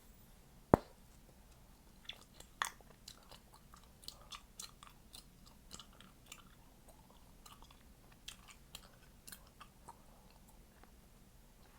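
Chewing gum being popped and snapped close to the microphone: one loud, sharp pop under a second in, then a run of smaller irregular clicks and smacks from about two seconds in until near the end.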